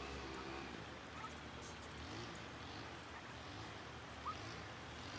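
Faint, short rising peeps from young poultry, a few seconds apart, over a steady low rumble.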